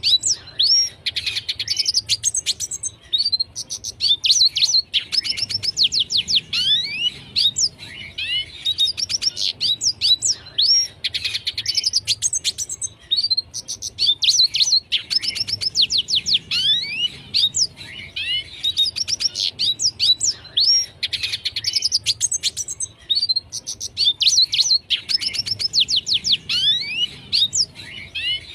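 Red siskin singing: a fast, high twittering song of rapid chirps and quick downward-sweeping whistles, delivered in phrases with brief pauses every couple of seconds.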